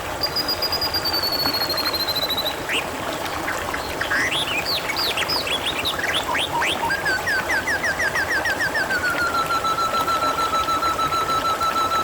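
Songbirds whistling and chirping over steadily trickling water: a long high whistle falling in pitch, then a burst of quick chirps, then a run of rapid repeated notes that settles into a long level whistle.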